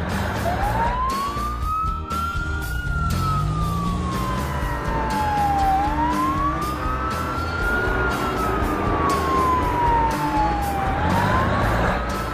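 Emergency vehicle siren wailing: one tone that rises quickly and then falls slowly, repeating about every five seconds, starting about half a second in. Background music plays underneath.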